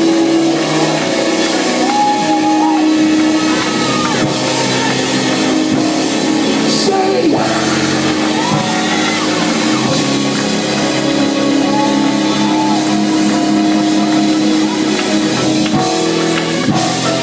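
Live band music with drums and guitar playing loud and steady, with some singing over it.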